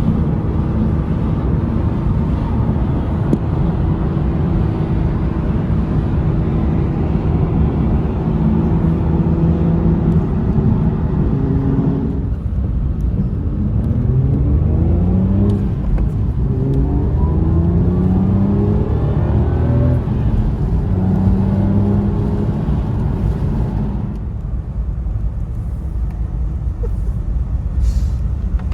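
Aston Martin DBS V12 engine running at a steady cruise, then pulling hard up through several gears about halfway through, each rising sweep in pitch cut off by an upshift, before settling back to a steady cruise.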